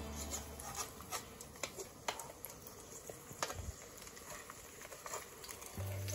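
Pork searing in a hot frying pan: fat sizzling with irregular small crackles and spatters, and a sharper click or two as it is turned with metal tongs.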